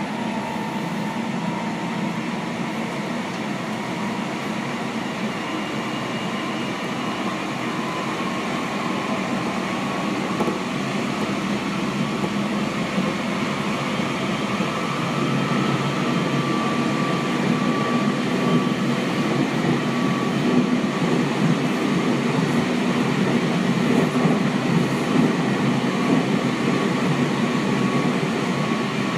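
Running noise inside a Seibu 6000 series electric train car with Hitachi GTO VVVF control: wheels on rail with the traction motors' steady hum, growing gradually louder as the train runs on.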